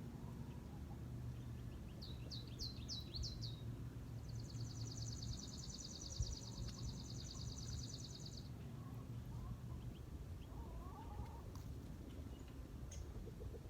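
Small songbirds at a feeder: a quick run of about five high, downslurred chips, then a long, even, high-pitched trill lasting about four seconds.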